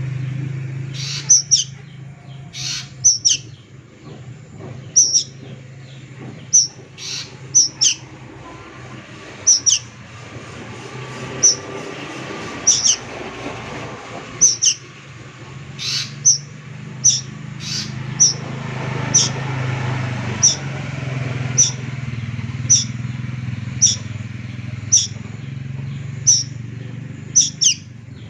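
Young kedasih cuckoo calling: short, sharp, high-pitched calls repeated about once a second, sometimes in quick pairs. A steady low hum runs underneath.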